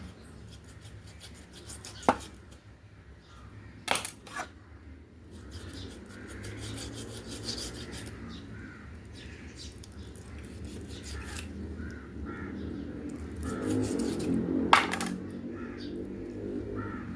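Kitchen handling sounds: rubbing and scraping, with a few sharp knocks of pots, dishes or utensils, the loudest about fifteen seconds in.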